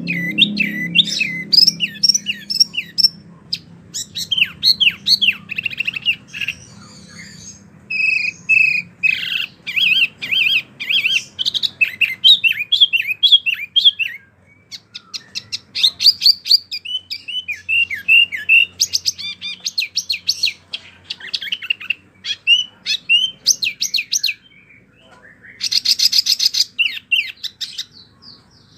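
Wambi songbird singing a fast, varied song of chirps, slurred whistles and trills, with short pauses and a dense rapid trill near the end.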